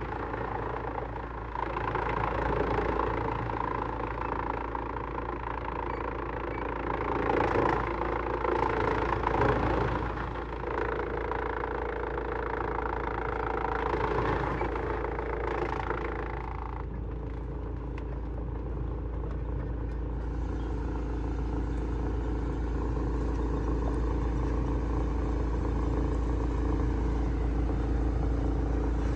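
Heavy-duty industrial wood shredder running, with dense crunching and cracking of wood being ground for roughly the first seventeen seconds. After that the machine runs on more evenly with less grinding, as the load eases.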